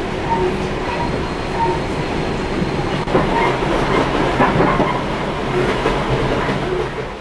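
Spirit of the Tropics overnight passenger train running along the track, a steady rumble with rail clatter, fading out near the end.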